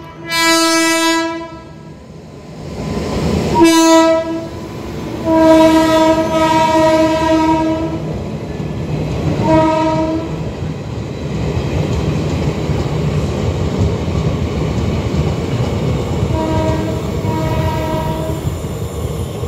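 Indian Railways passenger train passing close by, sounding its horn again and again: a short blast at the start, another about four seconds in, a long blast of about three seconds, one near ten seconds, and two short blasts near the end. Under the horn runs the steady rumble and clatter of the coach wheels on the rails.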